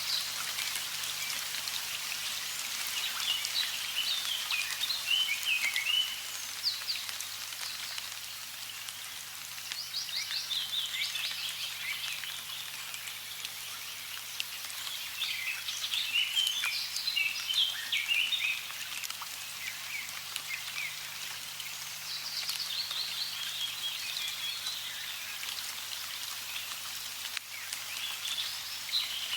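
Steady running water, with a songbird singing short, chirpy phrases that recur every several seconds.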